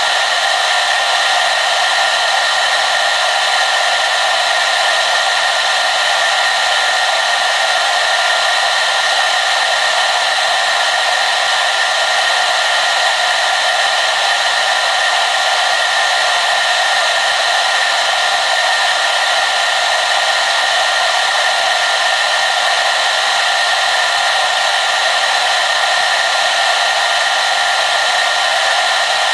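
Hair dryer running continuously at a constant speed: a steady, loud rushing hiss with a faint fixed whine, lacking any low rumble.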